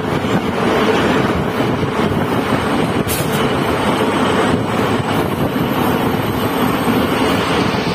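Passenger train running at speed, heard from inside a coach at an open barred window: a loud, steady rush of wheel and track noise mixed with air, with a brief sharp tick about three seconds in.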